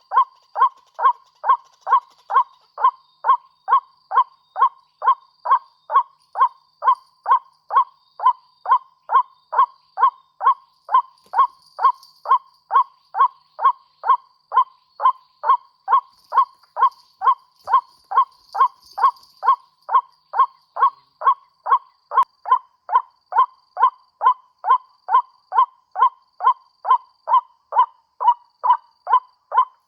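White-breasted waterhen call played as a lure, one loud note repeated evenly about twice a second without a break.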